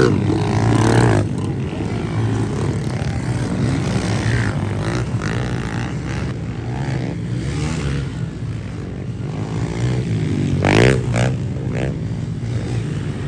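Small pit bike engines running steadily on the track. One revs up and back down sharply about 11 seconds in.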